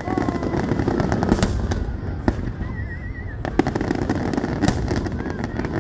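Fireworks display: many sharp bangs and crackling pops at irregular intervals over a continuous low rumble.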